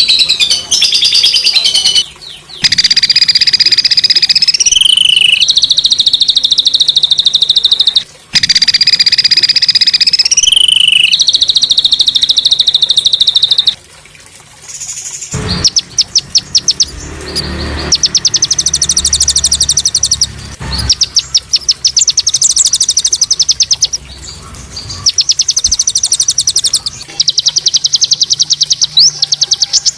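Songbird singing harsh, rapid 'tembakan' phrases for masteran (a tutoring recording for other songbirds). It gives long, fast, buzzy trills, then from about halfway quick runs of sharp repeated notes, many a second.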